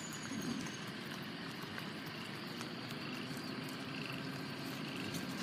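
Frogs calling faintly over a steady hiss, with short calls repeating every second or so.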